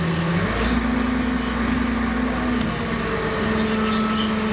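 Excavator's diesel engine and hydraulics running, a steady droning hum over a low rumble. The pitch steps up about half a second in, drops briefly a little after two and a half seconds, then rises again as the machine works.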